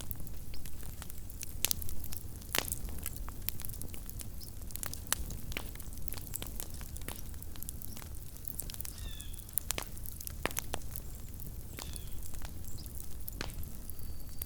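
Small wood campfire burning, with irregular sharp crackles and pops over a steady low rumble. A few short, faint high chirps sound midway through.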